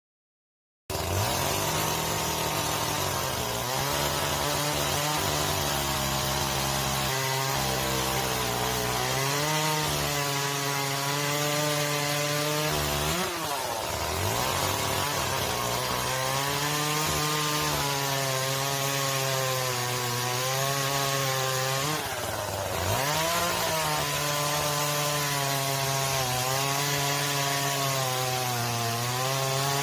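Chainsaw cutting firewood: a steady high engine note that wavers under load and twice drops sharply in pitch before picking back up.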